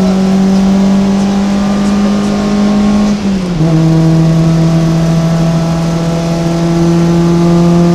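VW Golf 2 GTI's 107 hp four-cylinder engine pulling hard at high revs, heard inside the cabin, its pitch climbing slowly. About three seconds in, a quick upshift briefly drops the pitch and the engine pulls on again.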